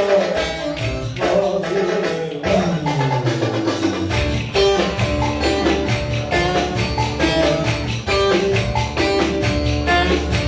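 Ankara oyun havası folk dance music, an instrumental passage between sung lines, with a fast, steady percussion beat and jingling percussion. About two and a half seconds in, a run of low notes falls in pitch.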